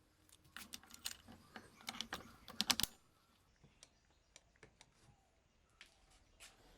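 A quick run of light clicks and taps for about three seconds, then a few scattered faint ticks.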